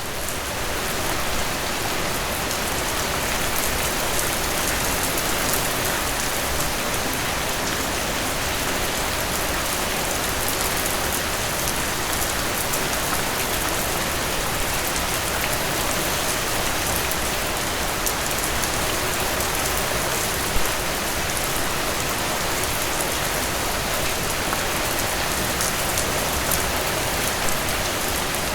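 Steady rain: an even, dense hiss of falling rain with scattered sharper drop ticks, and one slightly louder drop about twenty seconds in.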